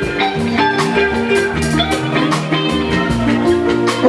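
Live fuji band playing an instrumental passage: sustained keyboard chords over a steady drum and percussion beat, with no singing.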